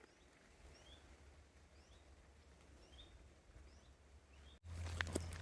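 Faint outdoor ambience: a bird repeating short rising chirps over a low steady rumble. About four and a half seconds in, it cuts abruptly to louder clicking and knocking.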